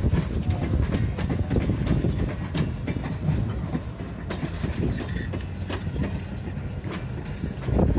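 Train cars rolling past, steel wheels clacking in quick irregular clicks over rail joints above a steady low rumble.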